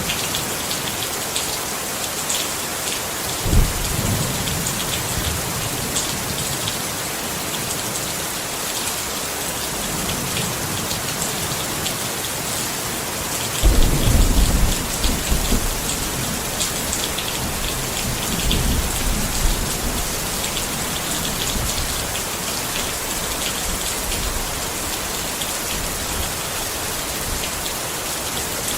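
Steady rain falling on a tent, with low rumbles of thunder: a brief one about three seconds in and a longer, louder one a little before the middle.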